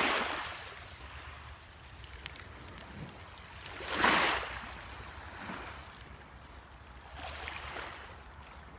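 Sea waves washing in on the shore, coming in swells, the loudest about four seconds in, with a steady low rumble beneath.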